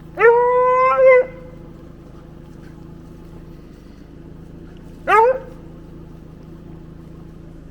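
Hound baying while working a cold trail: one long bawl lasting about a second, then a shorter one about five seconds later, the hound voicing as it strikes scent.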